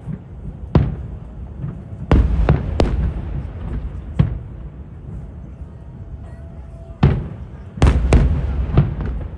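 Aerial firework shells bursting in a display, a string of about eight sharp booms at irregular intervals. The booms come thickest about two seconds in and again near the end.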